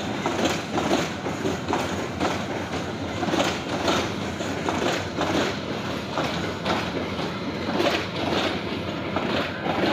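Bangladesh Railway passenger coaches rolling past, their wheels clacking over the rail joints about twice a second over a steady rumble.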